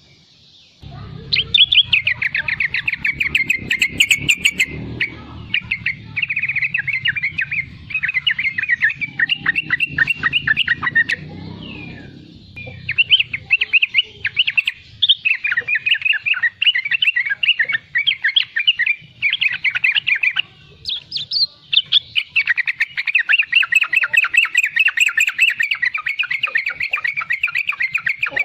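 Young yellow-vented bulbul (trucukan) chattering in long runs of rapid, scratchy notes (its 'riwikan' chatter), with brief pauses about twelve and twenty seconds in. A low hum lies under the first half.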